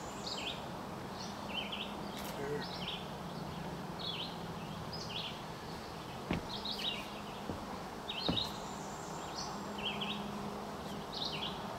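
A songbird singing short chirpy phrases over and over, about one a second, over a steady low hum. Two light knocks sound about six and eight seconds in.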